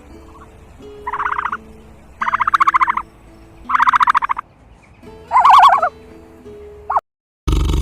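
Turkey gobbling: four fast, rattling calls, each under a second long and about a second apart, with a short fifth call near the end.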